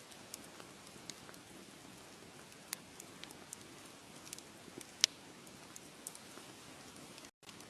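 Wood fire crackling: a soft steady hiss with scattered sharp pops, the loudest about five seconds in. The sound cuts out completely for a moment near the end.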